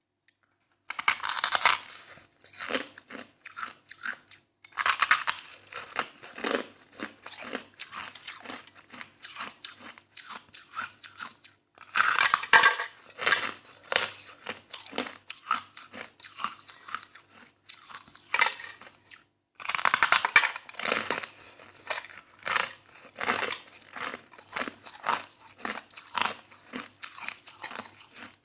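A person biting into and chewing soft crushed ice close to the microphone. It starts about a second in: four loud crunching bites, each followed by a run of smaller crunching chews.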